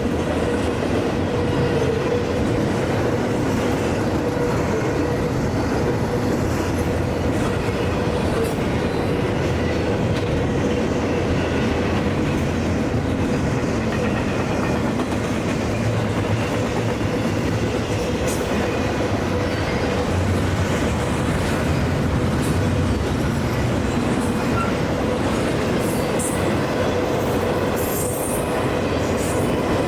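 CSX intermodal freight train's cars rolling past, a steady rumble and clatter of wheels on rail with a thin, steady wheel squeal running through it.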